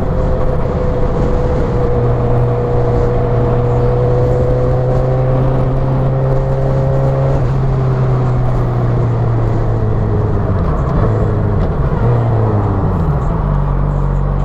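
Motorcycle engine running at a steady pitch, then dropping in pitch in steps about ten to thirteen seconds in as it slows, settling to a lower, steady note.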